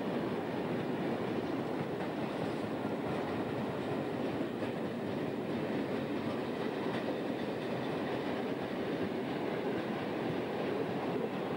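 A freight train's container and box wagons rolling past, a steady rumble of wheels on rail with a faint clickety-clack of wheels over rail joints.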